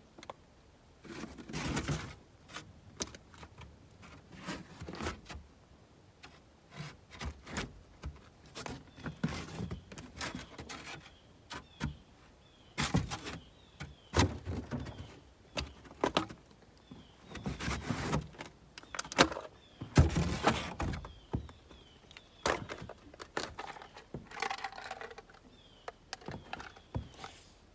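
Irregular scrapes, knocks and thunks of things being shifted and cleared out of a pickup truck's bed, some sharp clicks and some longer scraping strokes.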